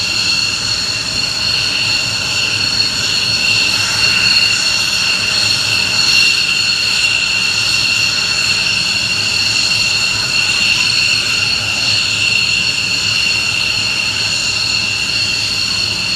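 F-15 fighter's jet engines running steadily: a loud, even rush with a high-pitched whine made of several steady tones that does not rise or fall.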